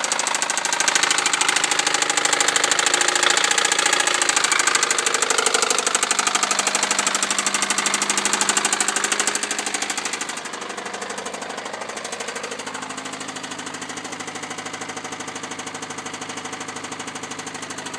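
1998 Honda Civic four-cylinder engine idling with a loud, rapid, rhythmic knock from the bottom end, the sign of a severe rod knock from a worn connecting-rod bearing. The clatter drops in level about ten seconds in.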